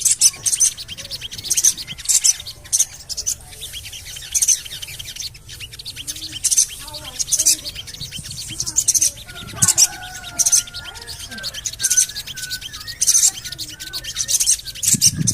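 Sogon birds (little spiderhunters) calling with short, sharp, high "cuit" chirps, repeated irregularly about one or two a second, with fainter lower twittering in the middle.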